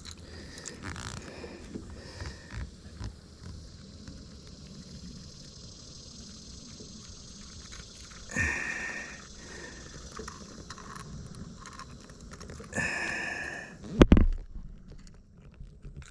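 Handling noises while a deep-hooked bass is worked free of the lure. There are two short squeaky sounds, about eight and thirteen seconds in, and a sharp thump about two seconds before the end.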